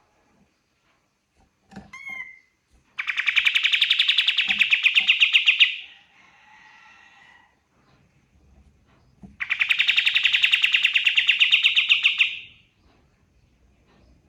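Pied triller (kapas tembak) singing: a short chirp, then two long, loud, rapid trills a few seconds apart.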